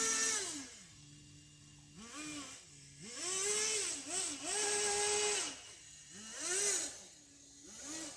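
Kyosho Blizzard RC snow tractor's small two-stroke nitro glow engine revving in a series of throttle blips, about five, dropping back to a low idle between them.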